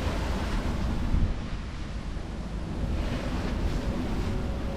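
Rough sea washing around a sailboat, with a steady rush of water and wind buffeting the microphone in a low rumble. There is a louder surge about a second in.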